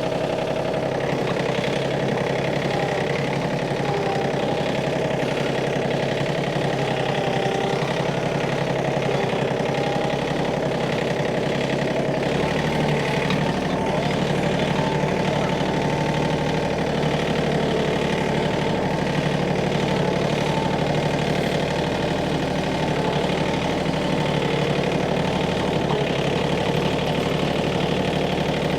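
Tractor engine running steadily, its note growing deeper and fuller about twelve seconds in.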